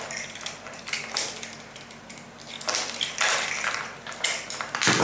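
Small metal clicks and clinks of split-ring pliers working a steel split ring onto a popper's eye, with the handling growing louder about three seconds in.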